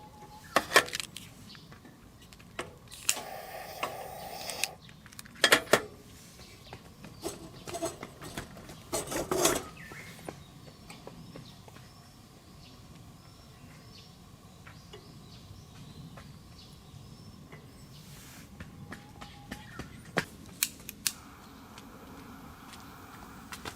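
Metal camping cookware and utensils being handled: scattered clinks and knocks, busiest in the first ten seconds, with a few more near the end.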